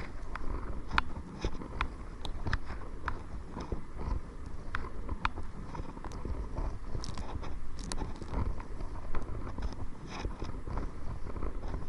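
Kayak paddling: irregular small knocks and splashes from the paddle and water against the hull, over a low wind rumble on the microphone.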